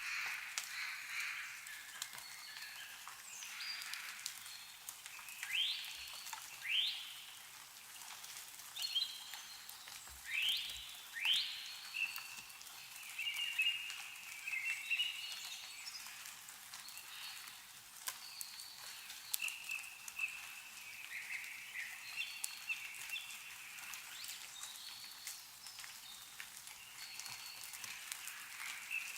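Songbirds chirping and calling, with two pairs of quick upward-sweeping chirps about 6 and 10 seconds in, over scattered faint ticks of meltwater dripping from snow-laden trees.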